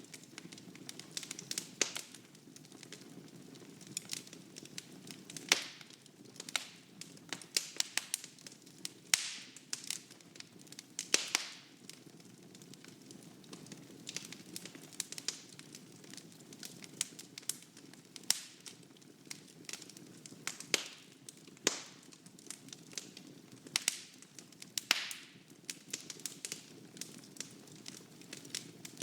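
Wood fire burning in a fireplace: a low steady rumble with irregular sharp crackles and pops, a few of them louder snaps.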